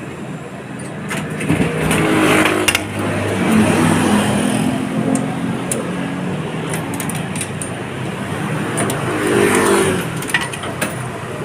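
Excavator's diesel engine running steadily, revving up about two seconds in and again near the end, with scattered sharp clanks.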